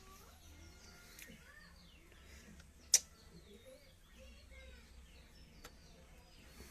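Faint bird chirps throughout, with one sharp click about three seconds in and a softer click near the end.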